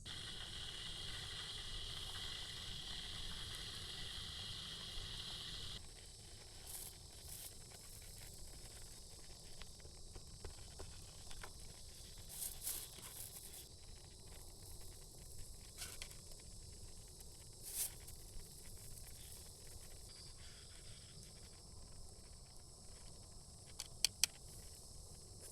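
A gas camp stove burner hissing steadily, then cut off abruptly about six seconds in. Scattered light crackles and ticks follow, with two sharp clicks near the end.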